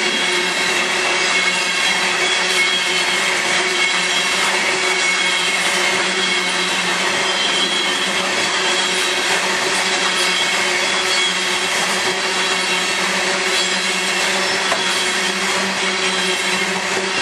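Loaded coal hopper cars rolling past at close range: a steady, loud noise of wheels on rails and rattling cars, with a steady whine running through it.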